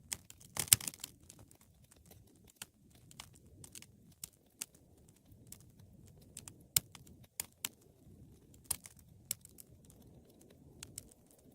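Wood fire crackling in a fireplace: irregular sharp pops and snaps, with a quick cluster of louder ones just under a second in, over a soft low rush of the burning.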